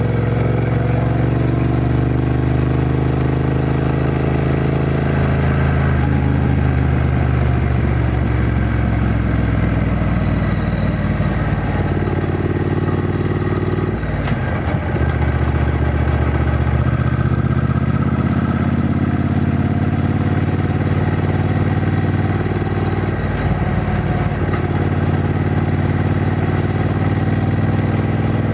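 Triumph Bonneville T120's 1200 cc parallel-twin engine running, its note changing pitch several times as the revs rise and fall, with a short break about halfway through.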